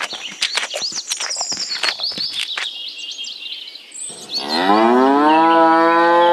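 A cow mooing once in one long, loud call that starts about four seconds in, rises and is held. Before it, a fast run of clicks and birds chirping.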